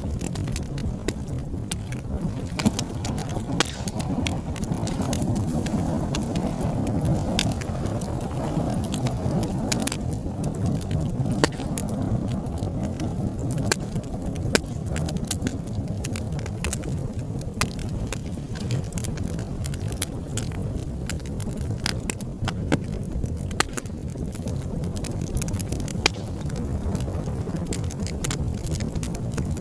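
Wood fire burning in a fireplace: a steady low rumble of flames with frequent sharp crackles and pops, several of them louder than the rest.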